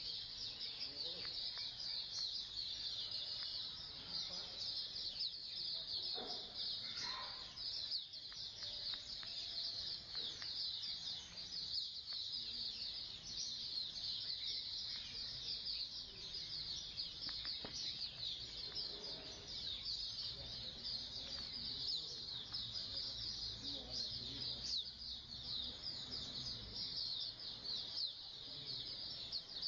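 A colony of white-eyes (pleci) chirping and twittering together: a dense, continuous stream of rapid, high, overlapping chirps.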